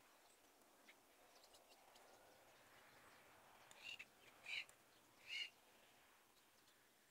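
A bird giving three short calls, a little under a second apart, faint against the quiet countryside background.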